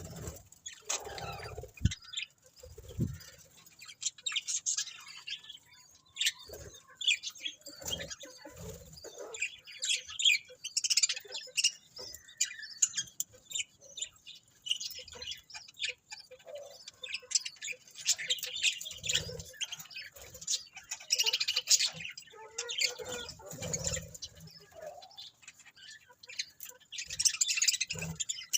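Budgerigars chirping and chattering continuously in quick, high twitters, with a few soft thumps now and then.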